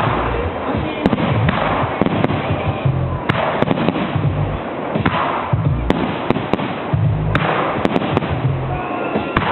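Aerial fireworks going off in quick succession: many sharp bangs of bursting shells over a dense, continuous crackle.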